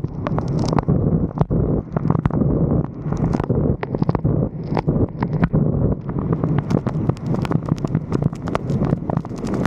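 Wind rumbling and buffeting on the microphone of a roof-mounted camera, with many irregular sharp ticks and taps throughout.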